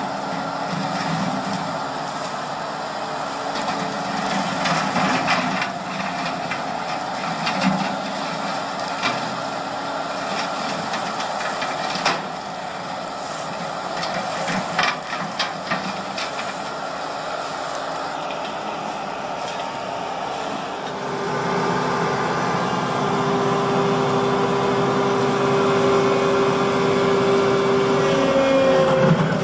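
Skid steer with a hydraulic brush cutter attachment running: steady engine and machine noise with sharp cracks now and then. About twenty seconds in it gets louder and a steady whine joins in.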